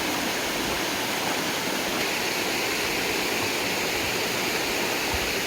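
Mountain stream water rushing, a steady even rush with no break.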